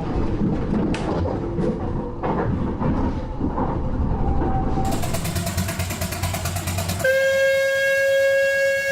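A train rumbling and clattering over the track with scattered clanks. About seven seconds in, a small steam traction engine's whistle sounds one loud, steady blast that is held to the end.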